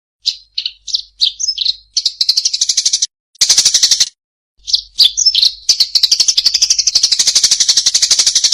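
Small songbird singing at a high pitch: a few short separate notes, then fast rattling trills broken by brief pauses, the last trill held for about three seconds.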